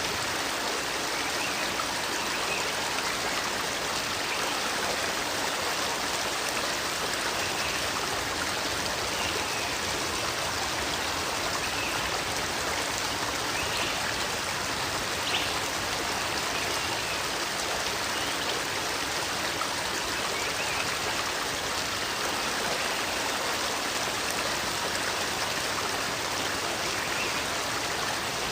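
Steady rush of flowing water, like a stream, holding an even level without pauses.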